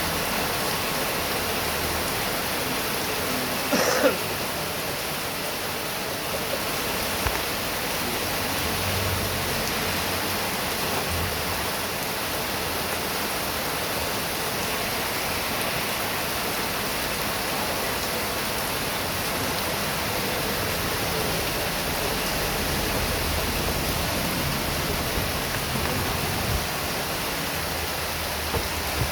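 Heavy rain pouring down steadily in a dense, even hiss. A short louder burst stands out about four seconds in, with a few faint ticks later on.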